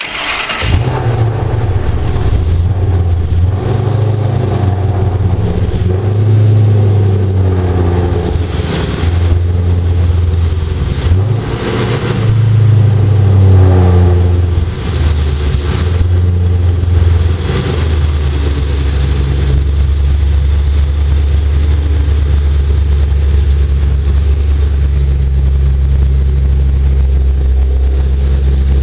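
Supercharged Ford Racing 5.0 L V8 in a 2005 Ford Mustang GT, revved several times over the first fifteen seconds or so, then settling into a steady idle.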